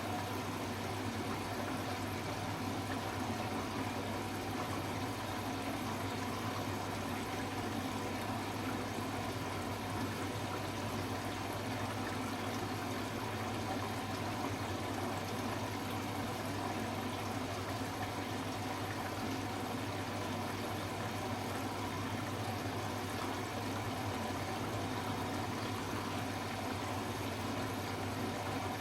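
Hoover H-Wash 300 Plus washing machine running steadily: a constant low hum under an even wash of noise, with no change in speed.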